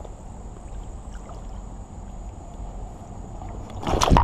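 Steady low rumble of creek water and wading, then a sudden loud splash and knock about four seconds in as the wading angler stumbles on the creek rocks and hits his knee.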